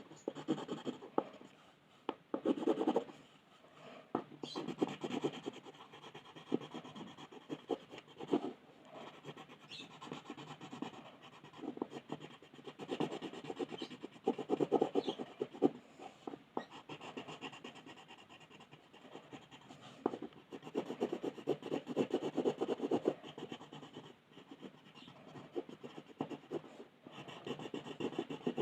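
Coloring strokes on paper: rapid back-and-forth scratching and rubbing of a coloring tip over the page, coming in runs of a few seconds with short pauses between them.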